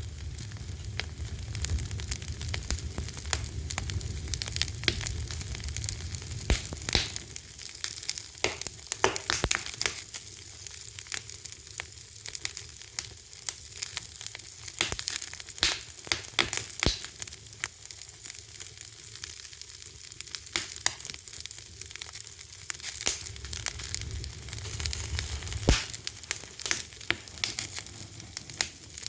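Fire crackling: dense, irregular pops and snaps over a steady hiss, with a low rumble of the flames that swells near the start and again near the end.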